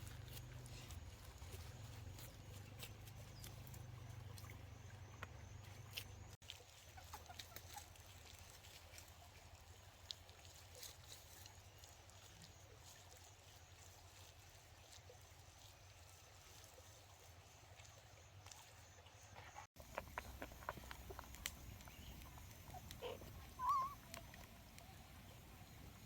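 Quiet ambience with a faint low hum and scattered light clicks and taps, broken by a short high-pitched animal call near the end.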